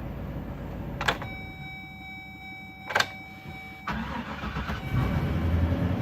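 Mini bus engine being started cold: after a click and a steady high tone lasting about three seconds, the engine catches about four seconds in and runs, louder from about a second later.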